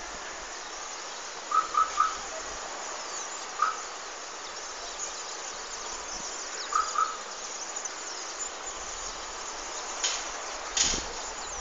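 A bird chirping in short calls of two or three at a time over a steady outdoor hiss, with two sharp knocks near the end.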